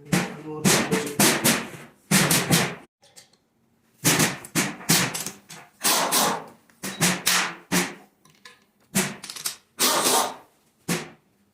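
Impact wrench run in a series of short bursts, a rattling hammering of one to two seconds each with brief pauses between, as bolts are loosened or run down.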